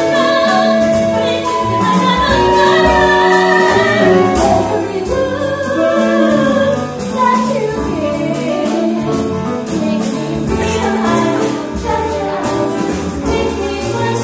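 Ensemble of voices singing a musical-theatre number together, with a small pit orchestra playing underneath in held, sustained notes.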